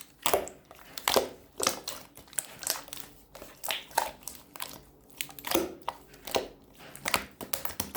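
Glitter slime being squeezed and pressed by hand, giving a run of sharp clicks and pops, about two a second.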